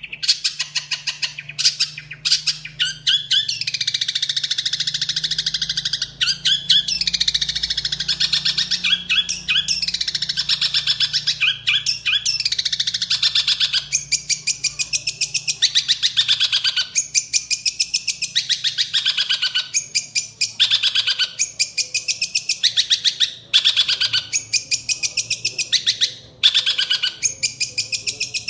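Long-tailed shrike (cendet) singing a fast, harsh chattering song of rapidly repeated high notes in long runs with short breaks, its song filled with mimicked phrases such as house-sparrow-like chirps.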